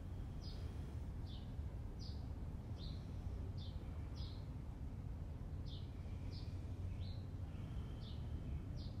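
A small bird chirping repeatedly, short high notes roughly one to two a second with a brief pause midway, over a steady low background rumble.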